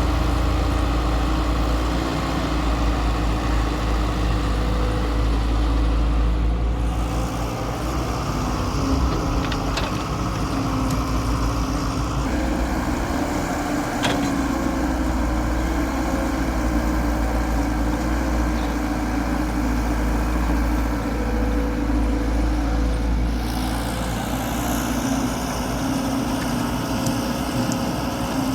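Diesel engines of a wheeled excavator and a tractor running steadily, with the sound shifting about six and a half seconds in and again near the end.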